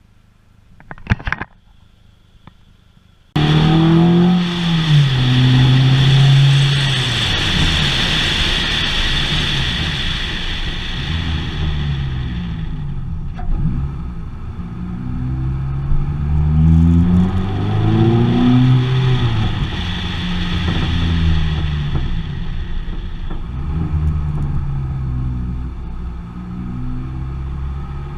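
Car engine accelerating through the gears, its pitch climbing and dropping over and over, over steady road and wind noise. It cuts in suddenly about three seconds in, after a few quiet seconds with a short click.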